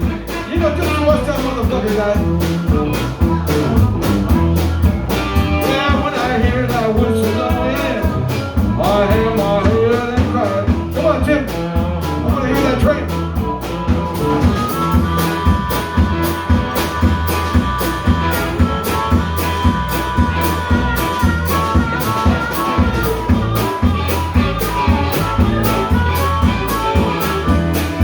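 Band playing an instrumental break with a steady, even beat: a wavering lead line over the rhythm in the first half, then long held notes from about halfway through.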